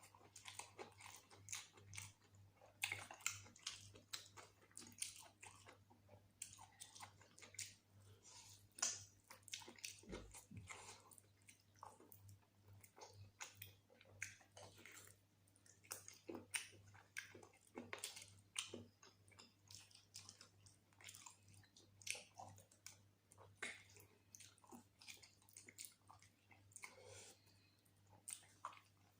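Quiet close-up eating sounds: a person chewing mutton curry and rice, with many short, irregular wet clicks and smacks, over a faint steady low hum.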